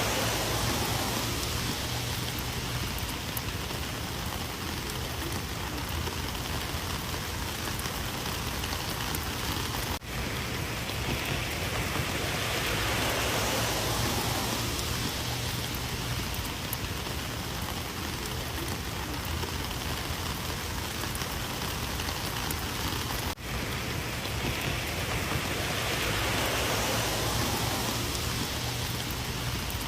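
Rain falling steadily, an even hiss that swells and eases slightly every dozen seconds or so and cuts out very briefly twice.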